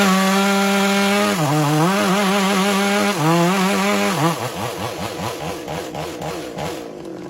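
Chainsaw running at high revs, its pitch dipping twice as the engine is loaded, then wavering up and down unevenly from about four seconds in.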